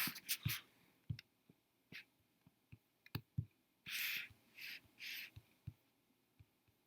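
Faint, scattered computer mouse and keyboard clicks, with three short soft hissing sounds near the middle.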